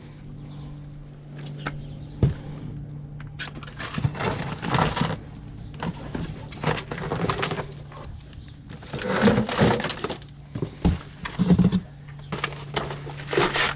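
Junk and scrap clattering and crashing as a pile is rummaged through: a run of irregular knocks and rattles over a steady low hum.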